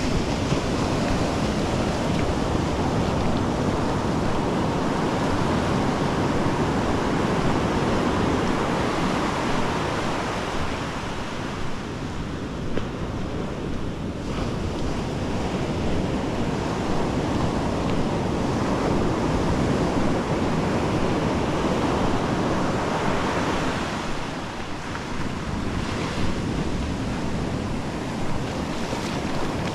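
Ocean surf breaking and washing up the beach in slow swells, with wind buffeting the microphone.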